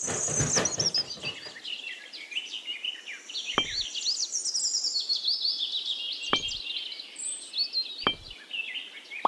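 Several small birds chirping and singing rapidly and continuously. A rustle comes in the first second or so, and three short soft knocks follow later on.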